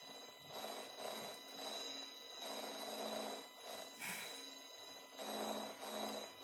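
Space-sound clip presented as the sound of the Sun, a sonification of solar data: a quiet, pulsing noise that swells and fades about once a second, over a faint steady high tone.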